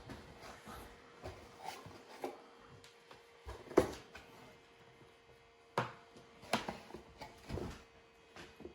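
Scattered knocks and clicks of objects being handled, the loudest about four seconds in, over a faint steady hum.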